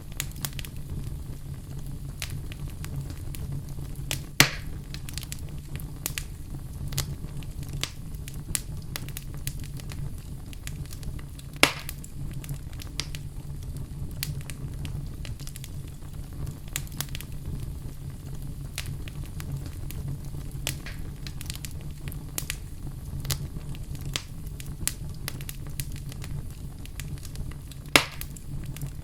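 Wood fire burning in a fireplace: a steady low rumble of flame under constant light crackling, with three loud sharp pops, about four seconds in, about twelve seconds in, and near the end.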